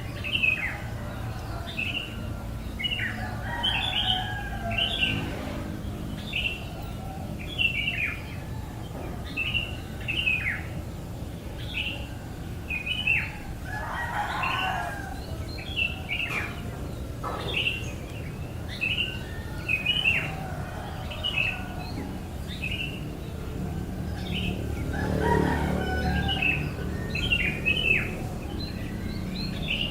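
A baby bird chirping over and over, short high chirps that drop in pitch, about one or two a second, over a steady low hum.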